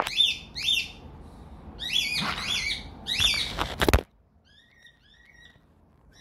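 A bird chirping repeatedly in quick runs of high chirps. About four seconds in there is a sharp knock, and the sound drops away abruptly to near silence with only a few faint chirps.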